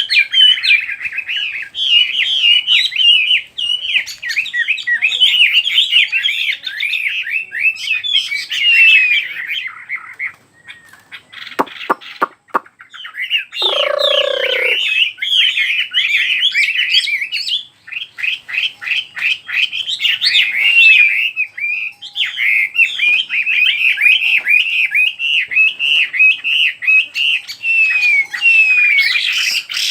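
Chinese hwamei singing a loud, fast, varied song of rapid whistled phrases. The song breaks off briefly about a third of the way in, with a few sharp clicks and one short, lower call, then carries on.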